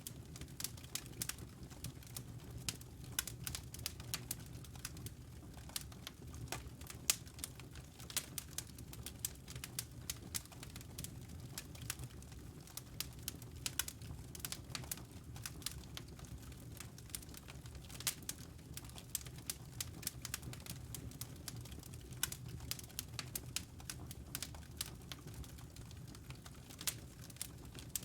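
Wood fire crackling in a fireplace: irregular sharp pops and snaps, many every second, over a low steady rumble.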